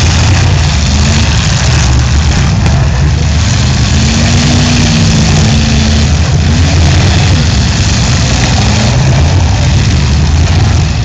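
Several demolition derby car engines running together, loud, with one engine's pitch rising and falling a few times in the middle.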